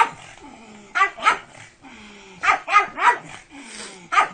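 A pug barking in short, sharp, high barks that come in quick bursts: one at the start, a pair about a second in, four in a row around the middle, and one more near the end.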